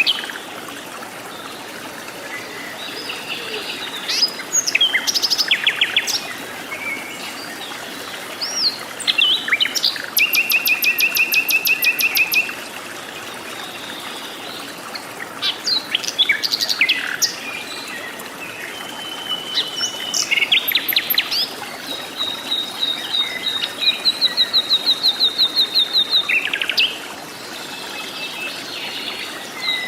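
Wild forest birds calling in turn: short whistled chirps and several long, rapid trills, over a steady background hiss.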